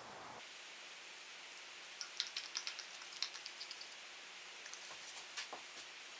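Faint steady hiss with a quick run of light clicks and taps about two seconds in, and a few more near the end.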